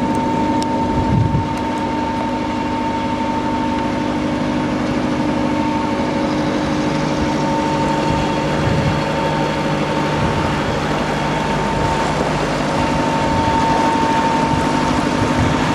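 Hire cruiser's engine running steadily while the boat is under way: a constant drone with an even whine over it.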